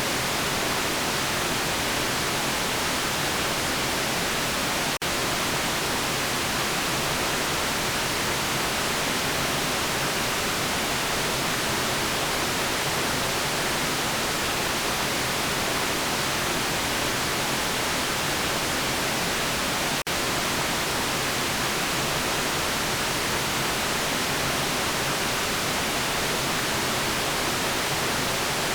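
Steady white noise, an even hiss, with two very brief dropouts, about five seconds in and again about twenty seconds in.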